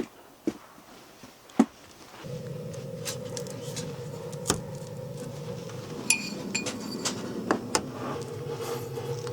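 Light clinks and taps of cookware and utensils, a few sharp clicks at first; about two seconds in a steady low hum starts and runs under them.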